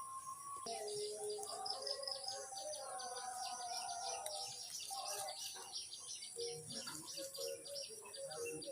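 Parrot chirping and chattering in a rapid run of high, repeated notes that begins about half a second in, with lower whistled tones mixed in.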